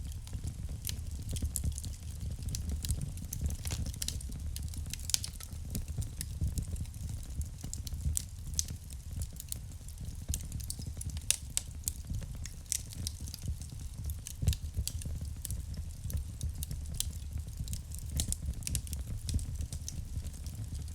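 Wood fire burning in a fireplace: a steady low rumble of flames with irregular sharp crackles and pops from the burning logs, a few louder snaps among them.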